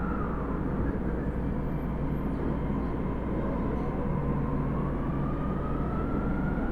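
Osaka Metro 30000 series subway train with Hitachi SiC-VVVF traction control accelerating: a low running rumble under a thin inverter whine that rises steadily in pitch.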